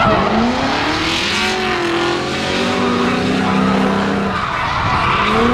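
Drift car engine revving hard with its tires squealing as it slides, the engine pitch climbing about half a second in, holding, then climbing again near the end.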